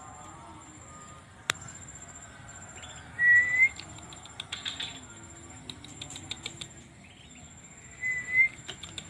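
Two short rising whistles about five seconds apart, loud and close, with light clicks and flutters around a caged white-rumped shama between them.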